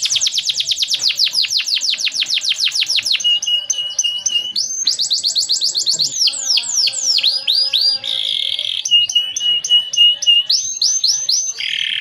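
Male canary singing a loud, fast, continuous song. It opens with a rapid trill of repeated down-sweeping notes. About three seconds in it changes to runs of short, steady, evenly spaced notes, broken by further quick trills and sweeps.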